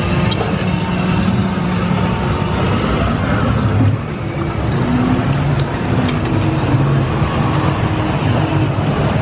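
Steady rumbling and rushing of the Kali River Rapids raft ride, heard from aboard the raft, dipping briefly about four seconds in.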